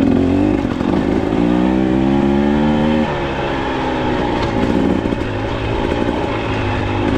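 Dirt bike engine running under throttle on a trail ride, its revs climbing for a couple of seconds about a second in, then dropping off suddenly as the throttle is let off, and rising and falling again a little later.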